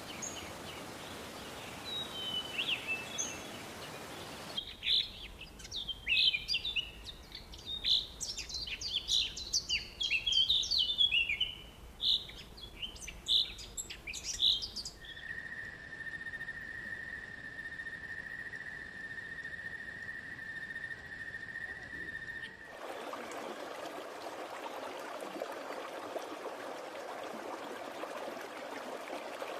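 Rainforest ambience in three parts. First, birds chirping in a rapid tangle of short calls. Then, from about halfway, a steady high tone holds for about seven seconds. For the last quarter, running water.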